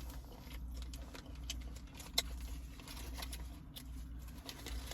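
Close-up eating sounds of a crispy taco being chewed: scattered small mouth clicks and crunches, with one sharper click about two seconds in, over a steady low hum.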